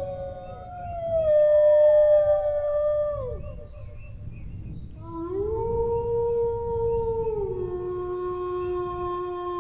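Dogs howling in long drawn-out howls: the first slides down and fades about three seconds in, and after a short pause another rises, holds, then drops to a lower steady pitch.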